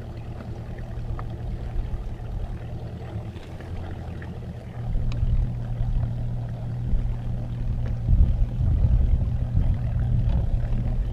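Bass boat's outboard motor running steadily, getting louder about five seconds in.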